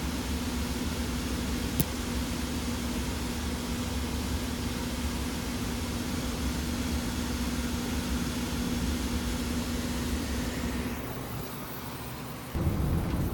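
Steady machine hum with a steady low tone, and a single sharp click about two seconds in. Near the end the hum drops away, and about half a second before the end a different, louder sound takes over abruptly.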